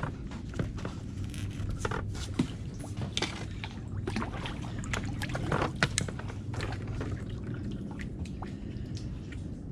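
Kayak paddle dipping into the water, with water dripping and trickling off the blades and scattered small splashes and knocks.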